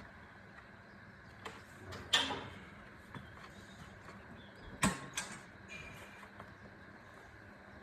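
A few sharp knocks over a faint steady hum: the loudest about two seconds in, trailing a short scraping rattle, then two more in quick succession about five seconds in.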